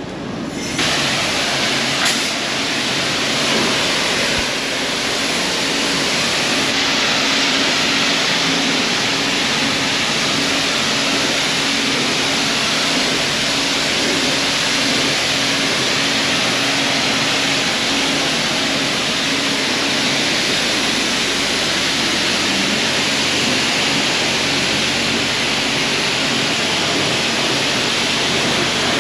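Self-serve car wash pressure wand on high-power rinse, spraying water onto a truck camper in a loud, steady hiss that starts abruptly about a second in. A faint steady low hum runs beneath it.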